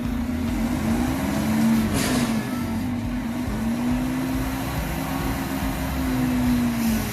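Garbage truck's engine running, a low drone whose pitch rises and falls over and over. A short burst of noise comes about two seconds in.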